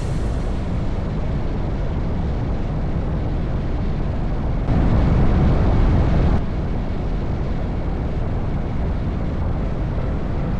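Wind rumble and road noise on an action camera riding on a moving Honda NC750X motorcycle, a steady low roar. It grows louder for about a second and a half midway, then settles back.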